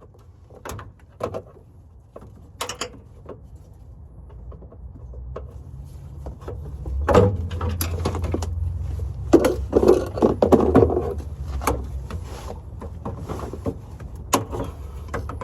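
Scattered metallic clinks and knocks of hand tools being worked on a vehicle, over a low rumble that grows louder about halfway through.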